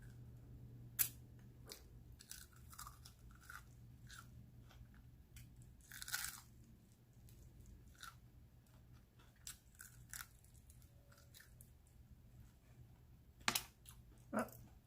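Mouth-close crunching and chewing on crispy Flamin' Hot Cheeto-crusted fried chicken wings. Short, irregular crunches come from single bites, with a sharp one about a second in, a cluster around the middle, and two loud ones near the end.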